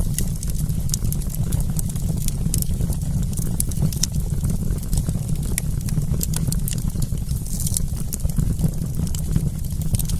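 Wood campfire crackling: many small, irregular pops and snaps over a steady low rumble.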